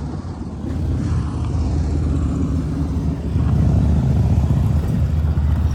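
Honda CRF110 pit bike's small four-stroke single-cylinder engine running under throttle as it is ridden. It gets louder about a second in and again after about three seconds.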